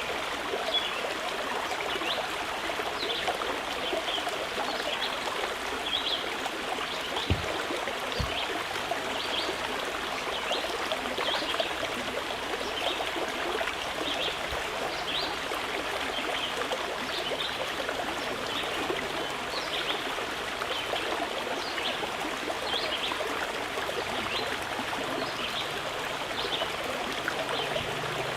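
Mountain river flowing steadily, a constant rush of running water.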